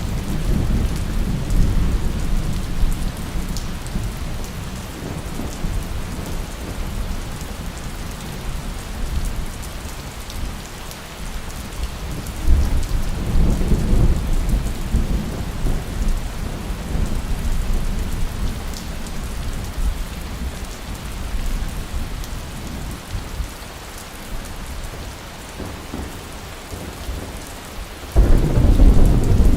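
Steady heavy rain with rolling thunder. Deep rumbles swell about two seconds in, again around halfway, and a loud one comes near the end.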